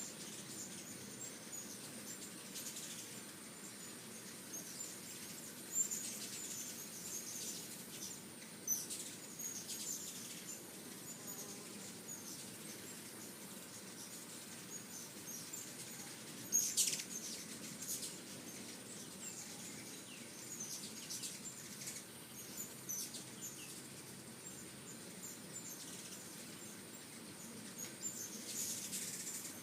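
Hummingbirds giving short, high-pitched chips and twitters, scattered throughout, with louder flurries about 6, 9 and 17 seconds in and again near the end.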